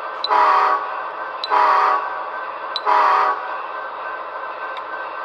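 Sound-equipped model locomotive sounding three short horn blasts, each about half a second, with a faint click just before each: three shorts, the signal for backing up. A steady hum runs underneath.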